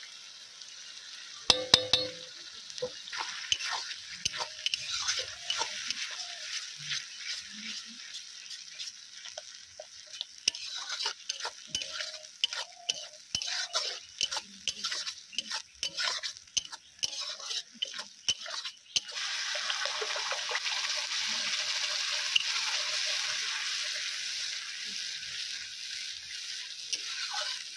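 Spice paste of onion and ginger-garlic frying in hot oil in a pan, stirred and scraped with a spatula: a few sharp clinks about two seconds in, then repeated scraping strokes over sizzling. About two-thirds of the way through, the sizzling turns suddenly louder and steady, then eases off near the end.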